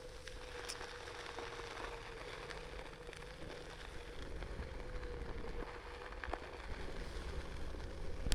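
Onewheel electric board's hub motor whining at a steady, slightly wavering pitch while riding, over a noisy hiss and low rumble, with a few light clicks.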